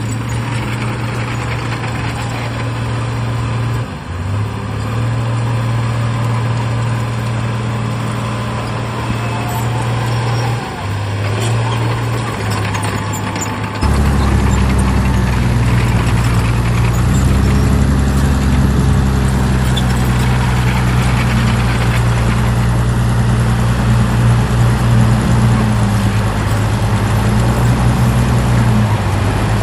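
Heavy diesel earthmoving machinery running under load, its engine note holding steady and then shifting in pitch. About halfway through, the sound changes abruptly and gets louder and deeper.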